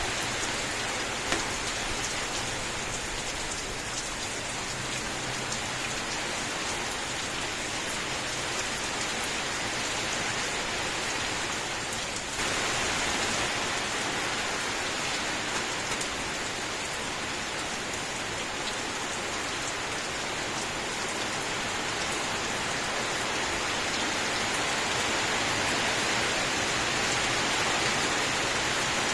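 Steady rain falling on a surface, a dense even hiss with scattered individual drop taps. It becomes slightly louder and brighter about twelve seconds in.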